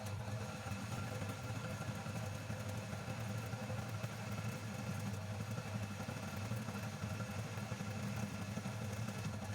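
Homemade metal lathe running: its electric motor and belt-and-pulley spindle drive turning at a steady speed with an even hum.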